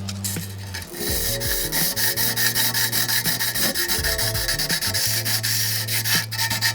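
Sandpaper rubbing over a bicycle frame in quick repeated strokes, starting about a second in, to prepare it for repainting. Background music plays underneath.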